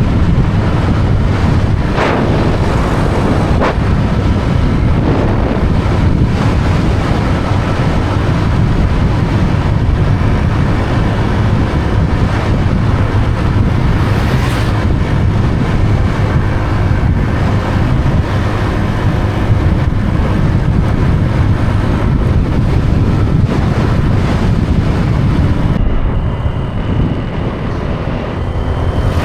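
Wind buffeting the microphone on a moving motorbike, a loud steady rumble of rushing air with road and engine noise under it, easing a little near the end.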